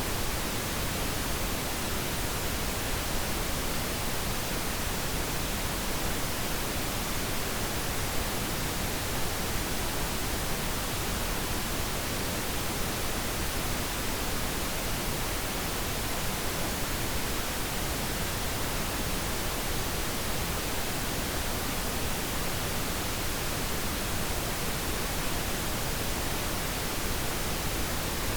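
Steady synthetic pink noise: an even, unchanging hiss spread across all pitches, used as a sleep aid for babies.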